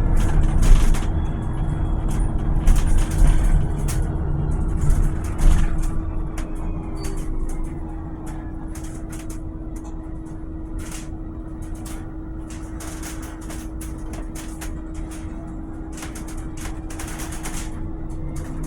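Volvo BZL electric bus running: low rumble with a steady electric hum and faint whine of the electric drive rising and falling, and many sharp clicks and rattles. Louder for the first six seconds or so, then quieter and steadier.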